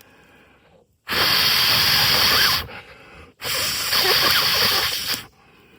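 A person blowing hard in two long breaths, each about a second and a half with a short pause between, onto smouldering tinder to coax a flint-and-steel spark into flame.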